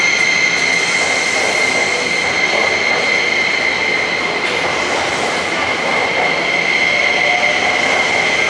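JR East E261 series Saphir Odoriko electric train moving at the platform: a steady rolling rumble with a high-pitched squeal held throughout.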